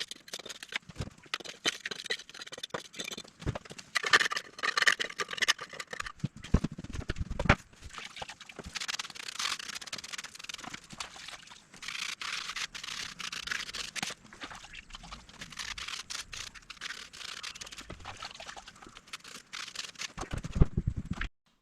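Bouts of scraping and rubbing on a hard surface, broken by many sharp clicks, with heavier knocks a few seconds in and again near the end. It stops suddenly.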